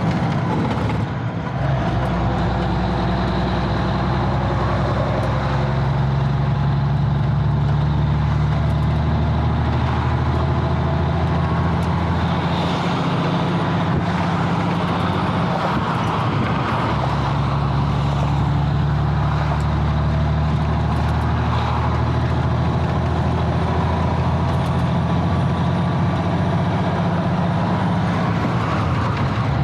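1985 Freightliner cabover semi truck's diesel engine running, a steady low drone that dips briefly about a second in and changes pitch around the middle.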